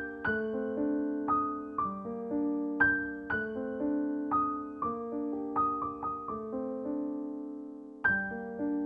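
Background music: a gentle solo piano or electric piano playing slow, sustained chords and melody notes, each struck note decaying slowly.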